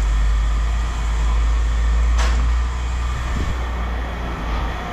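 A vehicle engine idling with a steady low rumble, and one sharp metallic clank about two seconds in.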